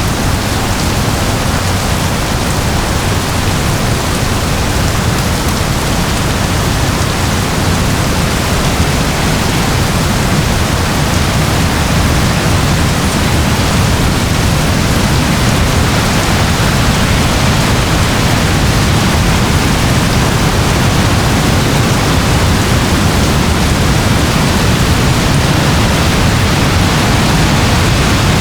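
Steady heavy rain: an even, unbroken hiss with a strong low rumble underneath.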